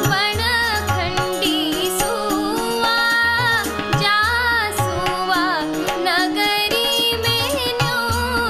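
A woman singing a Kumaoni shagun geet, a devotional folk song, in a richly ornamented, wavering melody. Hand-drum strokes and a steady held low note sound beneath the voice.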